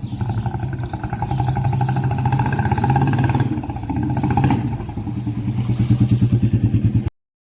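Royal Enfield Bullet 350's single-cylinder engine running through an aftermarket exhaust, with a steady thumping beat that swells a couple of times as the throttle is opened. The sound cuts off abruptly just before the end.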